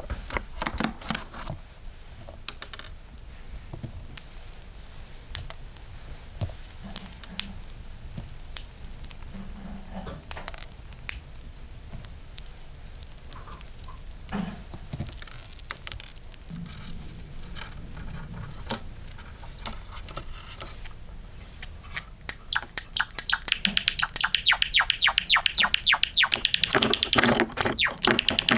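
Pet Java sparrow singing: scattered sharp clicks and short high notes, then about twenty-three seconds in a fast, loud, rattling run of rapid high notes that carries on to the end.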